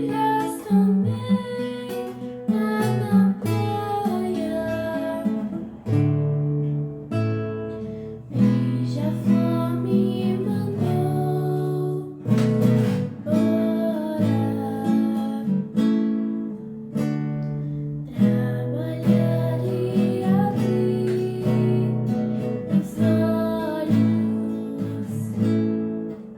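Song performance: an acoustic guitar strummed and picked, with a female voice singing held, wavering notes over it.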